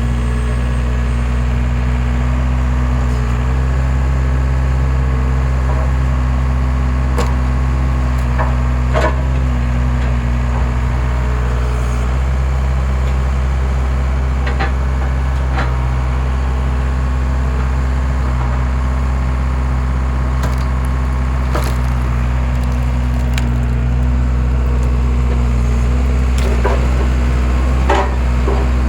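Skid steer engine running steadily under the hydraulic splitter, with a few sharp cracks and splintering as logs split apart, the loudest about a third of the way in and near the end.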